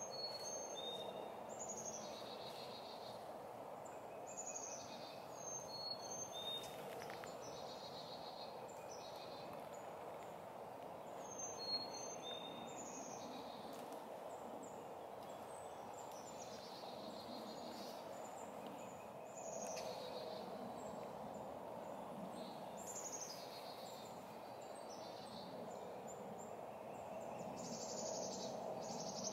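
Birds singing: short, high notes that slide downward, repeated every second or two, over a steady background noise. A single brief click sounds about midway.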